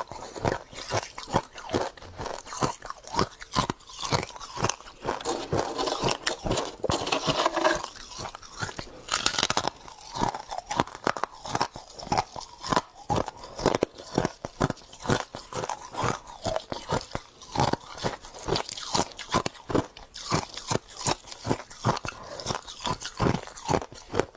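Close-up crunching and chewing of freezer frost: a dense run of crisp crunches, busiest for a few seconds near the middle.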